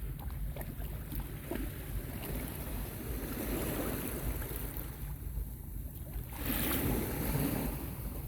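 Small sea waves washing onto a beach, swelling twice, about three and seven seconds in, over a steady low rumble of wind on the microphone.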